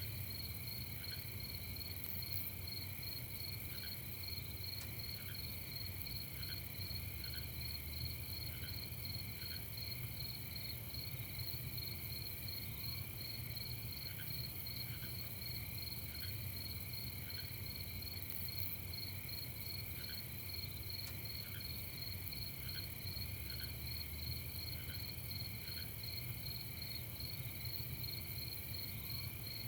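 Night chorus of crickets: several steady high trills layered together, with a lower short chirp repeating about once a second, over a faint low rumble.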